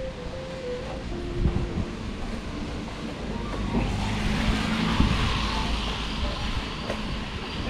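A car passing on a wet street: its tyre hiss swells through the middle and fades, over a steady low rumble of wind on the microphone. A few faint held notes of a tune step down in pitch in the first two seconds.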